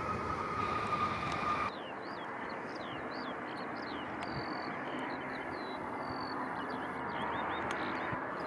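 Jet airliner engines running with a steady whine over a roar, cut off abruptly about two seconds in. Then a quieter, steady roar of distant jet traffic with small birds chirping over it.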